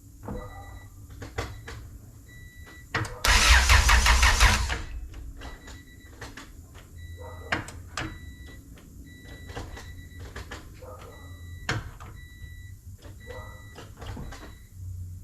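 Honda B18C engine cranked by its starter for about a second and a half without catching, on a battery that is running down. Scattered clicks and short high beeps repeat around it.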